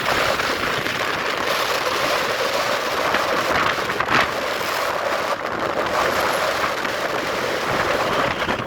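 Steady rush of wind and road noise on a moving motorbike, with a brief louder gust or bump about four seconds in.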